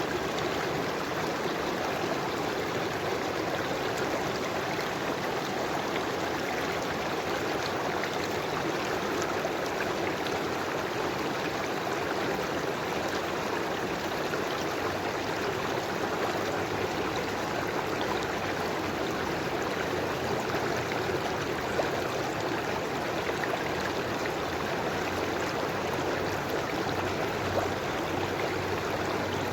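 A river flowing, with a steady, even rush of water and no break.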